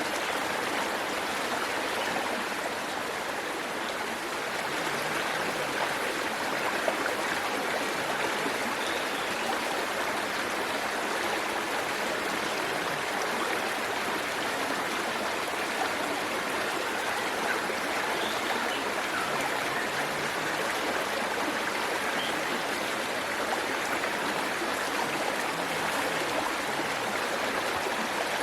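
Waterfall and stream water rushing steadily, an even hiss with no breaks.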